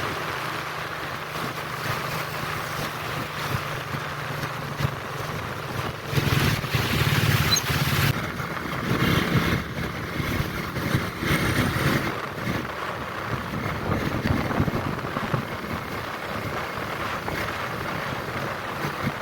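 Steady low rumble of a passenger ship under way, mixed with wind noise on the microphone, growing louder and rougher for several seconds in the middle.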